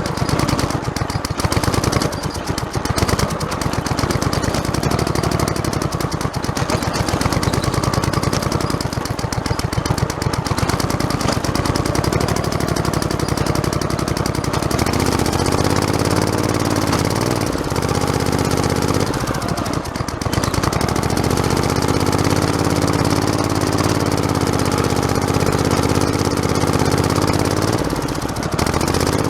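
Modified lawn tractor's small engine running close to the microphone as it drives a rough trail, with a fast rattle over the engine. In the second half the engine pitch rises and falls, dipping briefly twice.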